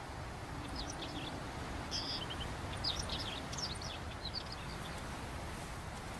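Small birds calling in short, high chirps, in scattered clusters through the first four and a half seconds, over a steady low outdoor background noise.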